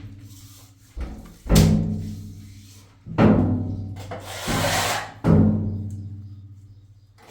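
Dramatic background music built on heavy, deep drum hits about every one and a half to two seconds, each ringing out and fading slowly, with a hissing swell near the middle.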